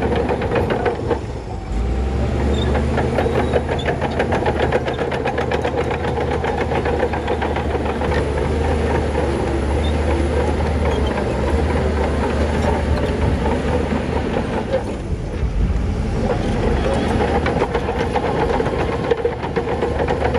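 Heavy diesel earthmoving machinery running steadily under work, a deep engine drone with a rapid metallic clatter over it; the drone grows louder about two seconds in.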